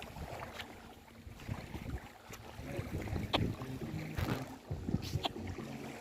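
A motor or engine hum that comes and goes, with scattered clicks and knocks over it.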